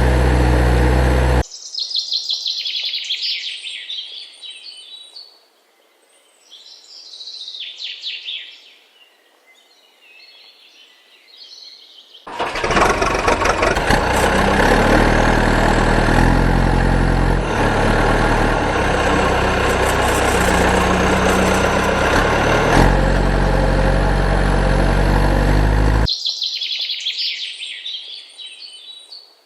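Birds chirping in short bursts. For about fourteen seconds in the middle, a loud mechanical rumble with low tones that step up and down covers them, and it cuts off suddenly.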